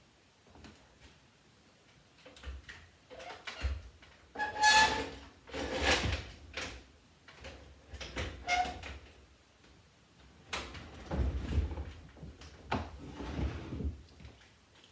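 Furniture parts being slid, scraped and knocked, like a drawer or pull-out leaf run in and out, in a string of irregular strokes with two short squeaks, the loudest about five seconds in and again around eleven to thirteen seconds.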